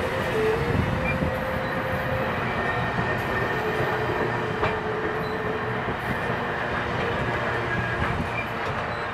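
Canadian Pacific passenger cars of a passing train rolling by at speed: a steady rumble of wheels on rail, with faint thin whining tones over it and one brief click about halfway through. The sound eases off slightly near the end.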